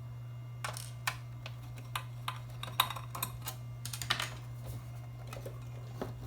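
Irregular small clicks and taps of a screwdriver and metal parts being handled while a screw is undone in an amplifier's chassis, over a steady low hum.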